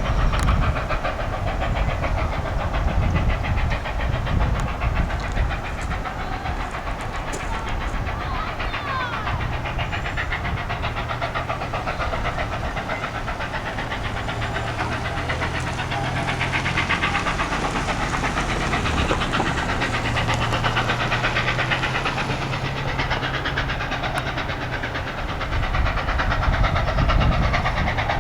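Steam locomotive and its train passing close by, a continuous hiss of steam over the rumble of the train. Wind buffets the microphone.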